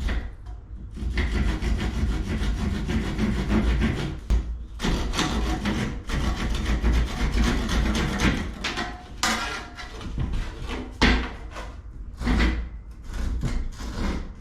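Hand saw cutting a piece of pressed-wood (fibreboard) window trim, rasping in long runs of strokes. There is a short break about four seconds in, and the second half has shorter, separate strokes.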